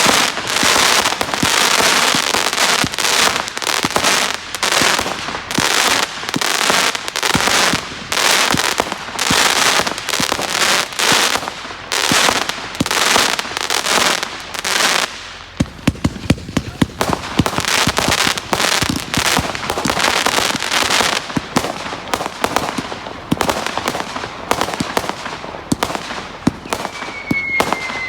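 Fireworks display going off in a dense, continuous barrage of bangs and bursts. From about halfway it turns to rapid sharp crackling, and a brief falling whistle is heard near the end.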